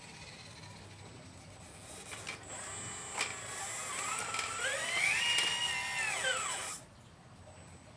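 Electric hydraulic pump of a 1/12-scale RC Liebherr 954 excavator running under load. Its whine rises in pitch about four seconds in, holds, then falls and cuts off near the end, with a high steady whistle from the motor over it.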